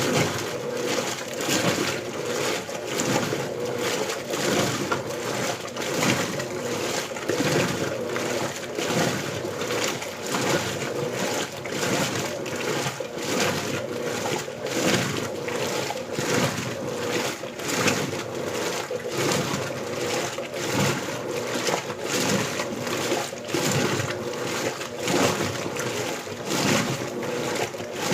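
Electrolux LBU15 top-load washing machine agitating a small load on turbo agitation: water sloshing and splashing in regular, rhythmic surges.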